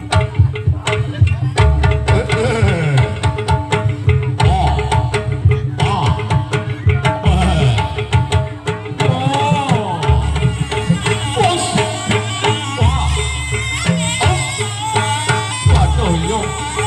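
Live jaranan music: hand drums (kendang) beating a fast rhythm under steady ringing gong-chime tones and a wavering melody line.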